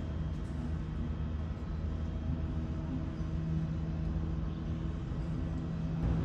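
Steady low rumble of airliner jet engines, with a constant hum over it.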